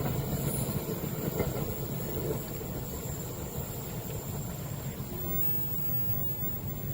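Steady low rumble of a passing train, slowly fading.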